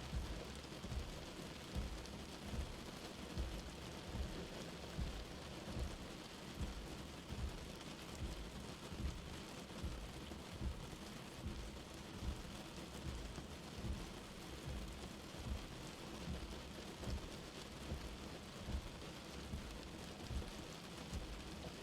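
Light rain falling steadily, an even hiss with soft low thuds recurring about every three-quarters of a second underneath.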